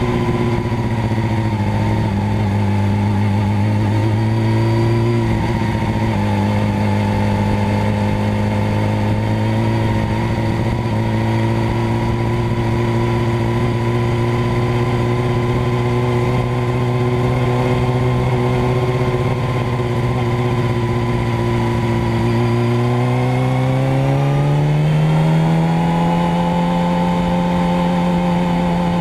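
Motorcycle engine running at a steady speed. About three-quarters of the way through, it speeds up over a couple of seconds, rising in pitch, then holds at the higher speed.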